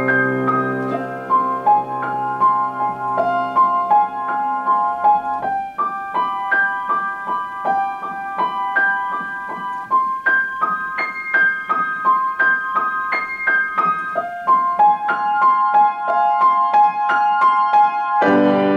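Solo piano playing a classical-style composition: a quick, rhythmic figure of short repeated notes in the middle register. Low held bass notes fade out about five seconds in, and a new low chord comes in near the end.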